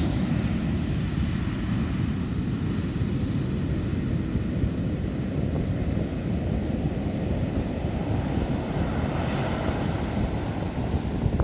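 Roar of heavy ocean surf breaking on a beach: a dense, low rumble with a hissier surge about nine seconds in, and wind buffeting the microphone.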